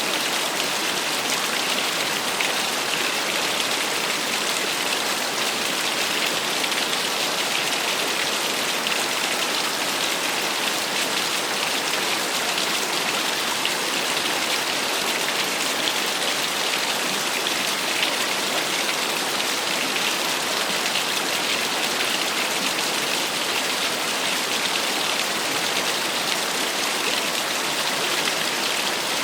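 Small waterfall: water falling and splashing in a steady, even hiss.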